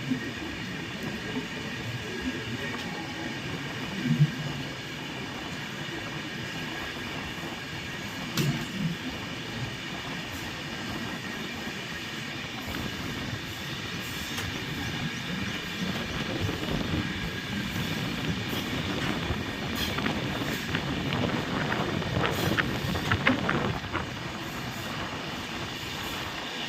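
Train running on the tracks: a steady rumble with a steady high-pitched tone above it and scattered sharp clacks, a little louder in the second half.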